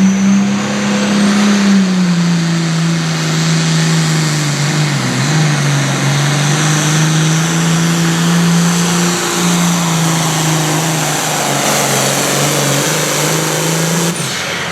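Engine of a competition pulling tractor or truck running hard at high, fairly steady revs, as on a pull down the track. The pitch sags briefly about five seconds in, and the sound drops off near the end.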